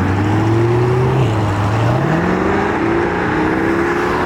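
Car engine pulling away under throttle: a steady note that climbs in pitch from about a second in as the car accelerates, then keeps rising more gently.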